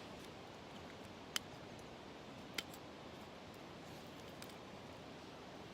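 Steady faint rush of a river, with two sharp clicks a little over a second apart standing out near the start and a fainter tick later.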